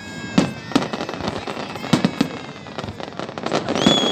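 Fireworks display: a rapid series of sharp bangs from bursting shells over a high, steady whistling, with a louder whistle setting in near the end.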